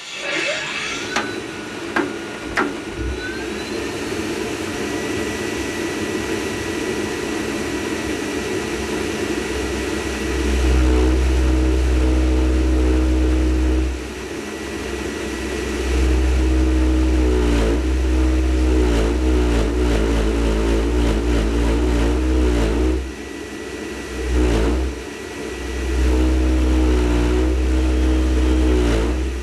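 Rinnai tankless water heater running, its combustion fan making a steady whir with a few sharp clicks in the first seconds. From about a third of the way in, a loud deep bass drone sets in and comes and goes in several long spells with short breaks, which the owner takes for the burner flaming out.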